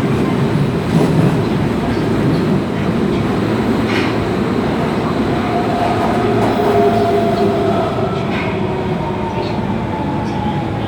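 Osaka Metro 22 series subway train running, its Mitsubishi GTO-thyristor VVVF inverter and traction motors giving a steady whine over a loud rumble of wheels on rail. The whine drifts slowly lower in pitch in the second half, and there are two sharp clicks, about four seconds and eight and a half seconds in.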